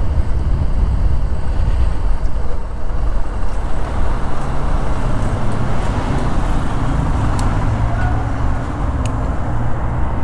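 Steady road noise from riding a Bajaj Pulsar NS160 motorcycle in highway traffic: a dense, unbroken rumble with no pauses.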